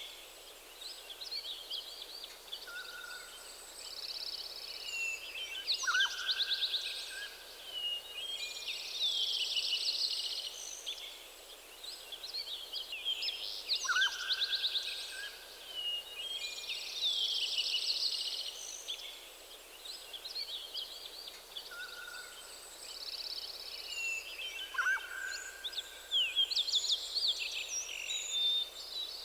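Several songbirds singing over one another in a forest dawn chorus, with trills and chirps throughout and a lower clear whistled phrase recurring every several seconds.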